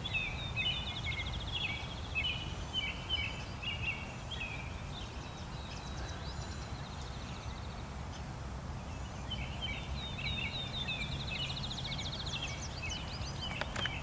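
Songbirds singing repeated short chirping phrases with a high trill. The singing is busiest at the start, thins out in the middle, and picks up again over the last few seconds, over a steady low rumble.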